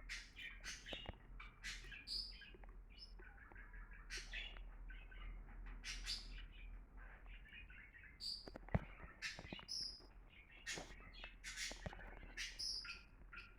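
Birds chirping in many short, repeated chirps, some of them high-pitched, with a few sharp clicks among them.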